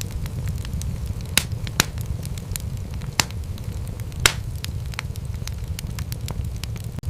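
Wood fire crackling in a fireplace: a steady low rumble of flames with scattered sharp pops and snaps, four of them louder than the rest. The sound drops out for an instant near the end.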